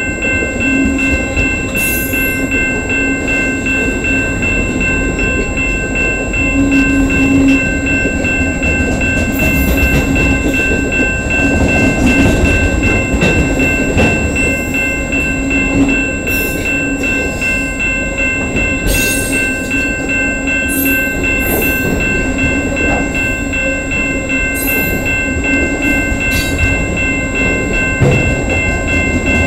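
CN freight train's cars rolling past, a loud, steady rumble and hum of wheels on rails, with brief high-pitched screeches now and then.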